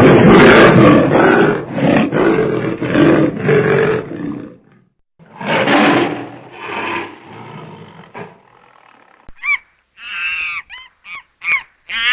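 A large animal roaring in long, loud, rough bursts, followed by a series of short, higher-pitched calls in the last few seconds.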